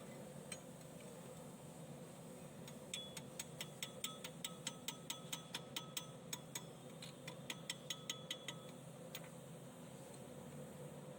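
A run of evenly spaced sharp metallic clicks, about three or four a second, starting about three seconds in and stopping after roughly six seconds, over a low steady hum.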